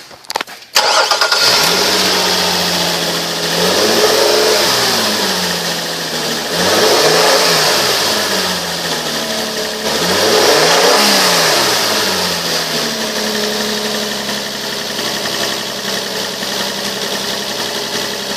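A 2007 Nissan Murano's 3.5-litre V6 starts about a second in, is revved up and back down three times, then settles into a steady idle.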